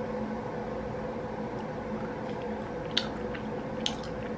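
Quiet chewing of raw rockfish sashimi, with two short sharp clicks about three and four seconds in, over a steady hum.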